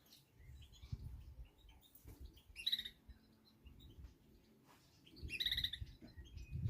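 Small birds chirping in short high bursts, the strongest twice: a little before halfway and again about two-thirds of the way through, over a low rumble.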